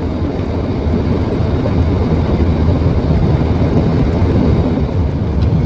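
Steady low rumble of a car driving on a rough, potholed road, heard from inside the cabin.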